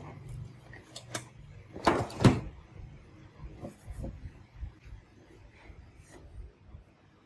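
A few irregular clicks and knocks of hard parts being handled, the loudest two close together about two seconds in, as a low hum dies away at the start.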